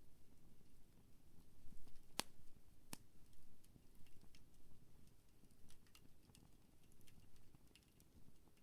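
Wood campfire crackling with scattered small snaps over a low steady rumble, with two sharper pops about two and three seconds in.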